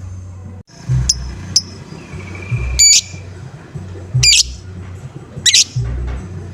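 Lovebird giving short, shrill calls, about five in a few seconds, one preceded by a longer held note about two seconds in; a lure recording of 'ngoek-ngoek' calls meant to stir other lovebirds. Background music with a low repeating beat runs underneath.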